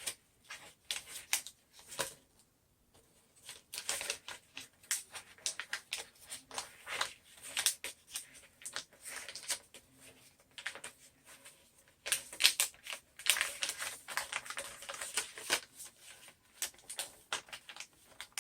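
Contact paper being peeled from its backing and handled: irregular crackling and crinkling in several spells, with short pauses between them.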